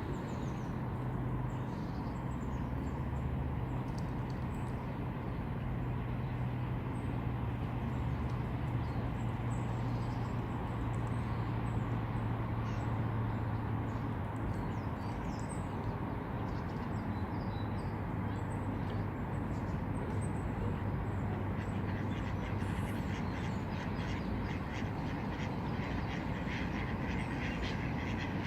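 Lakeside ambience: a steady low hum and rumble under scattered small-bird chirps, with ducks quacking, a quick run of quacks near the end.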